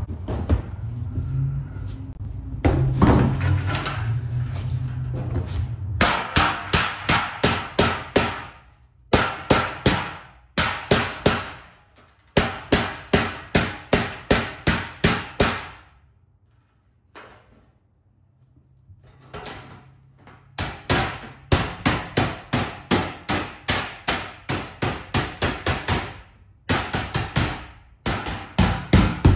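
Hammer blows on a bent sheet-metal trim piece, beating it back into shape: quick runs of sharp, ringing strikes at about three or four a second, broken by short pauses and one longer quiet stretch past the middle.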